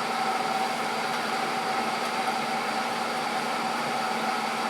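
Steady mechanical hum with an even hiss and a few constant tones, unchanging throughout.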